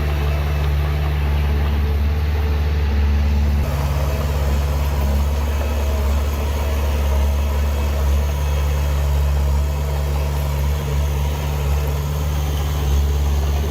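Heavy diesel engine of earthmoving machinery running steadily at a low, even speed.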